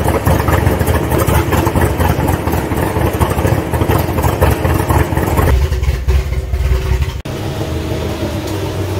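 LS V8 engine of a swapped BMW running as the car drives along. The sound thins out about five and a half seconds in and breaks off sharply a little after seven seconds, followed by a steadier, slightly quieter engine note.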